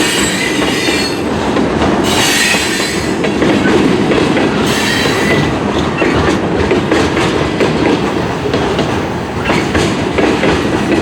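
Freight train cars rolling past close by, a steady rumble and clatter of wheels on rail. High wheel squeal comes and goes in three short spells during the first six seconds.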